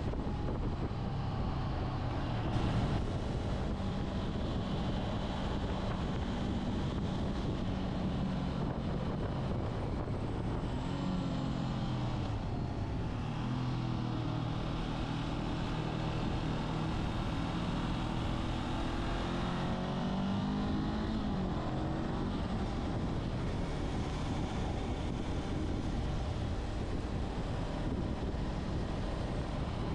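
Motorcycle engine running on the road, its note rising and falling several times as the throttle changes.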